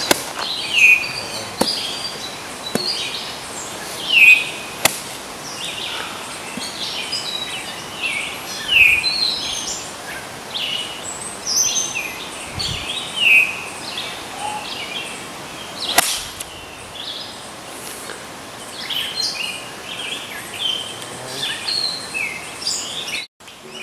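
Songbirds chirping over and over, short downward-sliding calls, against steady outdoor background noise, with a single sharp crack about two-thirds of the way through.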